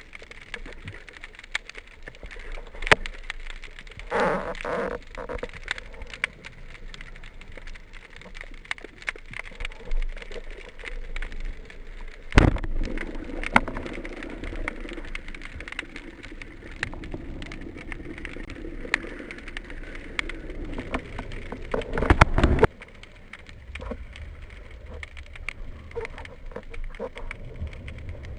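Underwater sound in shallow sea water: a steady crackle of fine clicks, broken by a few louder rushing bursts about four, twelve and twenty-two seconds in.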